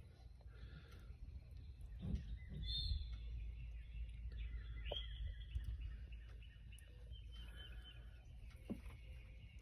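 Faint birdsong: scattered chirps and short whistled notes from birds, over a low steady rumble.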